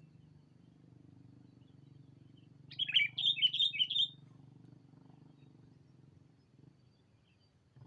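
Sooty-headed bulbul giving one short, loud phrase of four or five quick rolling notes about three seconds in. A steady low hum runs underneath.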